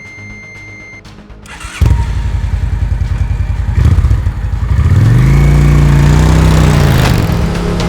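An Indian Scout Bobber's V-twin engine starts suddenly about two seconds in, is blipped once, then revs up and back down before settling into a steady idle.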